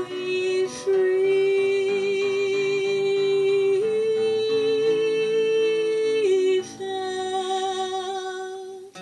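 Music: a woman singing long held notes over a low sustained accompaniment, the sung note stepping up about four seconds in and back down a couple of seconds later.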